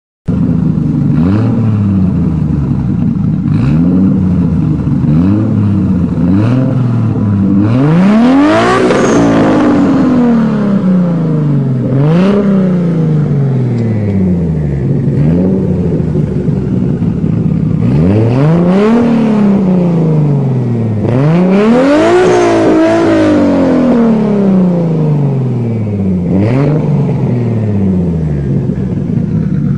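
Toyota Supra engine being revved repeatedly. First come several quick short blips of the throttle. Then come longer revs that climb higher and sink back slowly each time.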